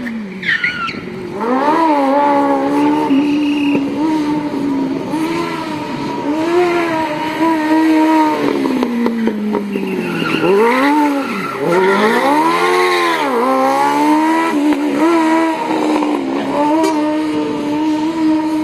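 Smart Fortwo's swapped-in Kawasaki Ninja motorcycle engine revving hard under racing load, its pitch climbing and falling through gear changes. About ten seconds in, the revs drop low, then rise and fall sharply several times before it settles into a high, steady pull.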